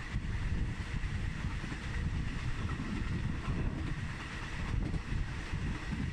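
Wind buffeting the microphone at the open window of a moving passenger train, over the train's steady running rumble on the track.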